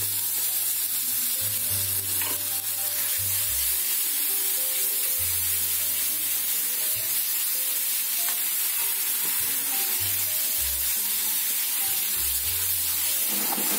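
Ground onion-tomato-coconut masala paste frying in hot oil in a metal kadai, with a steady sizzle as a wooden spatula stirs and spreads it.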